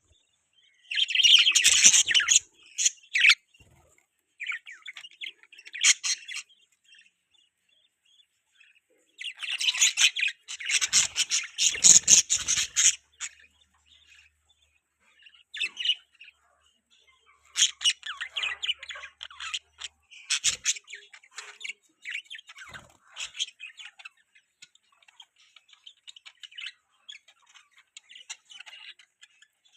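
Budgerigars chirping and chattering in quick, high-pitched bursts, with louder spells of busy chatter separated by softer, scattered chirps.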